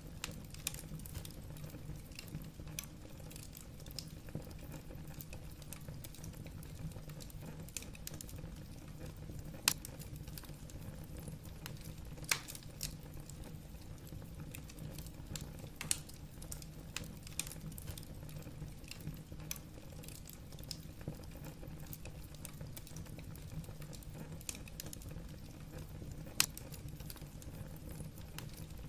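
Wood burning in a fireplace: a steady low rumble of the fire with constant small crackles of the logs and a few louder pops, one about ten seconds in and another near the end.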